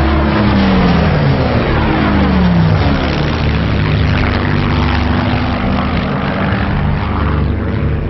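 Supermarine Spitfire's Rolls-Royce Merlin V12 engine running loud as the aircraft flies past, its pitch sliding down over the first three seconds as it goes by.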